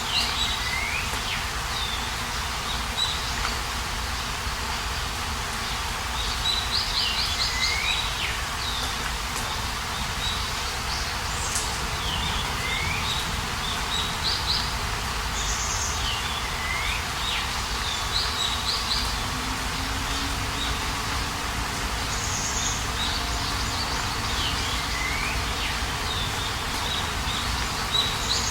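Songbird singing short repeated phrases, a quick trill followed by a falling whistle, every few seconds, over a steady low background rumble.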